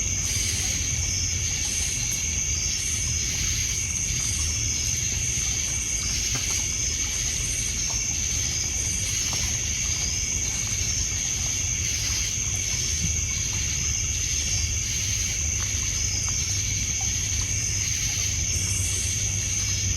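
Night insects, crickets among them, trilling steadily with a high continuous tone and a regular chirping pulse, over a low wash of water lapping on a pebble shore. A few faint crackles of the wood fire come through.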